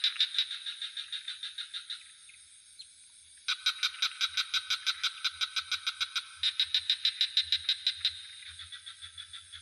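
Frog chorus calling in rapid pulsed trills of about eight pulses a second, in bouts that stop about two seconds in and start again a second and a half later. A steady high cricket drone runs underneath.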